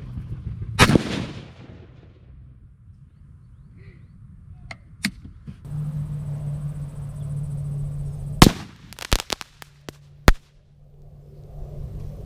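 .308 rifle shots and exploding fireworks: a sharp report about a second in, then after a lull another loud crack followed by a quick string of bangs.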